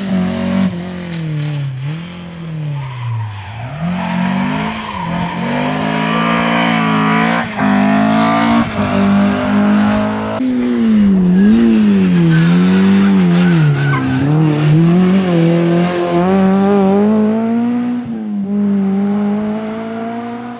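Rally car engine revving hard. Its pitch swoops down and back up again and again with throttle lifts and gear changes, then climbs steadily near the end as the car accelerates away. Tyres squeal at times as the car slides.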